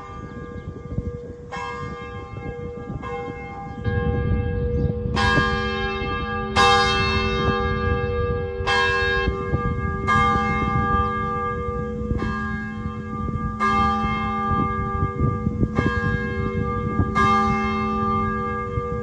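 Church bell ringing, struck about every second and a half, each stroke ringing on into the next over a steady low hum. A low rumble under the bell gets louder about four seconds in.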